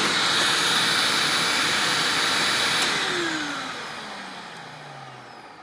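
Hoover WindTunnel Self-Propelled upright vacuum, fitted with a Maytag-era WindTunnel motor, running steadily. About three seconds in it cuts off, and the motor winds down with a falling whine that fades away.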